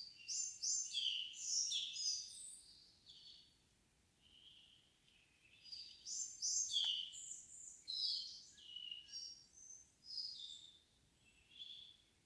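A songbird singing quick, high-pitched phrases of short varied notes in the quiet of an evening forest: one burst at the start, a few softer notes, then a longer burst from about halfway to near the end.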